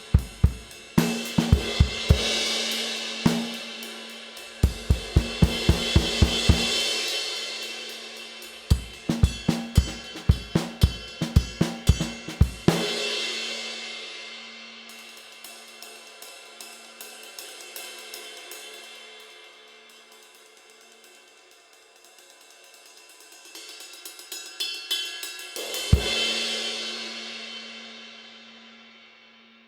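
Zildjian 22" K Custom Medium Ride cymbal played in a drum groove with kick and snare for the first dozen seconds or so, then ridden alone with light strokes. The strokes swell to a loud hit on the cymbal with a bass drum near the end, and the ride is left to ring and fade out.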